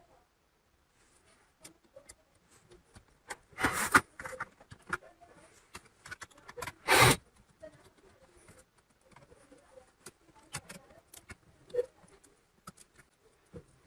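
Scattered small clicks, taps and scrapes of laptop parts being handled, with two louder brief rasps about four and seven seconds in.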